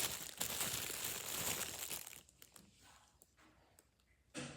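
Packaging crinkling and tearing as a parcel is torn open, dense for about two seconds, then dropping to a few faint rustles and clicks.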